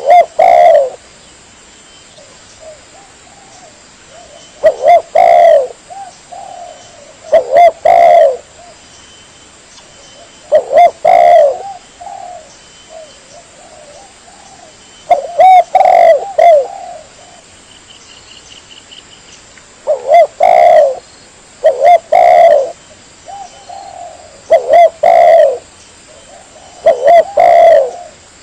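Spotted dove (tekukur) cooing in repeated low phrases of two or three coos, about every two to four seconds, each phrase led by a sharp click. This is the tekukur lure call used to draw wild doves.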